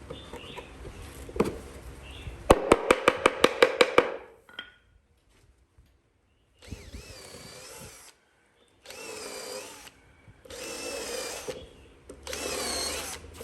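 A quick run of about ten sharp knocks, then four short bursts of a woodworking power tool, each about a second long with a wavering whine.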